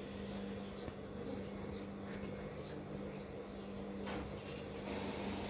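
Soft rubbing and scratching with a few light clicks as cloth is handled and marked out on a work surface, over a steady low hum.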